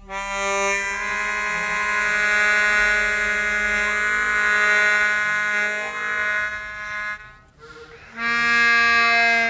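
Suzuki Sirius S48B bass chromatic harmonica played through a Boss MD500 effects pedal, holding one long, buzzy note for about seven seconds, then after a short break starting a second held note.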